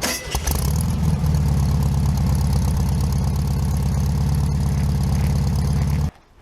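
1994 Saturn SL2's twin-cam four-cylinder engine catching on a cold start and settling into a steady idle. The sound cuts off suddenly near the end.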